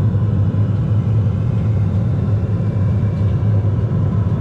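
North Star hot-water pressure washer's burner firing, a steady low rumble, as it heats water flowing through its coil.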